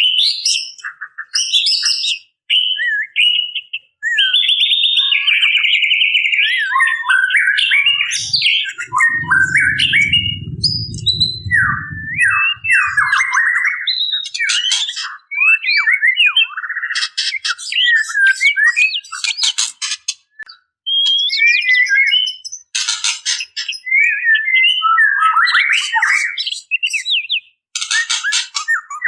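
Female white-rumped shama calling to a male in breeding condition: a dense run of varied chattering calls, short whistled sweeps and rapid rattling 'ketrekan' notes. A low rumble runs beneath it for a few seconds in the middle.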